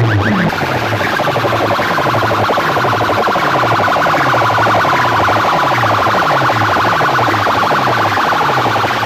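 Horn loudspeakers of a competition sound system blaring an electronic siren-like effect, a low tone falling over and over about twice a second under a fast, high warble.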